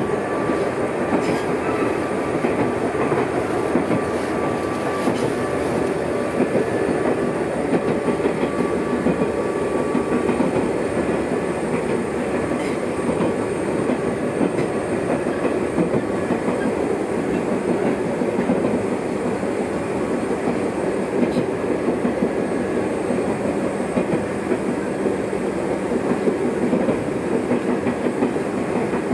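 Ichibata Electric Railway train running between stations, heard from inside the passenger car: a steady rumble of wheels on rail with occasional clicks over the rail joints.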